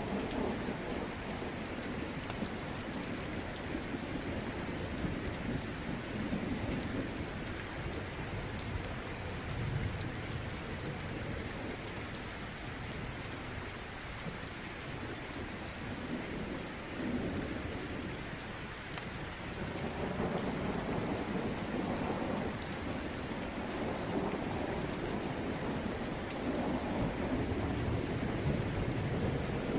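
Steady rain with low rolling thunder rumbling under it, the rumble swelling about two-thirds of the way through.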